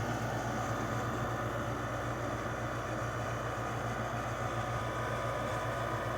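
LG 6000 BTU window air conditioner running with its compressor on: a steady low hum under the even rush of its fan.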